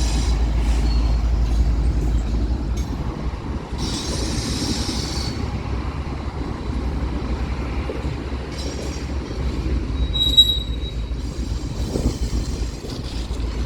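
BNSF mixed freight train's cars rolling past close by: a steady low rumble of wheels on rail, with short high wheel squeals about four seconds in and again about ten seconds in.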